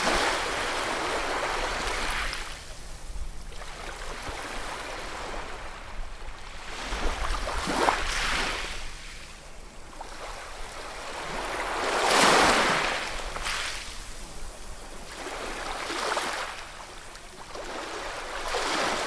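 Ocean waves breaking and washing onto the shore, surging and falling back every few seconds, the biggest surge about twelve seconds in.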